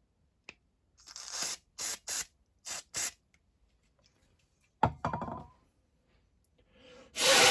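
Five short hissing bursts in quick succession, then a sharp metallic clink with a brief ring, and a louder, longer hiss near the end, from work on a small carburettor jet.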